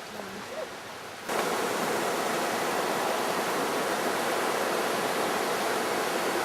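Fast-flowing water rushing steadily and loudly. It comes in suddenly about a second in, after a quieter stretch.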